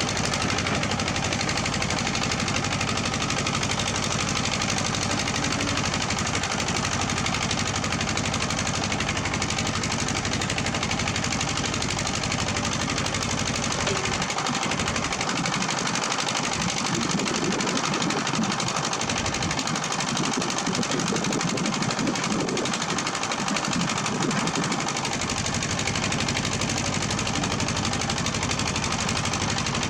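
Diesel engine of heavy earthmoving equipment running steadily with a rapid mechanical clatter. The deepest part of the sound drops away for about ten seconds midway, then returns.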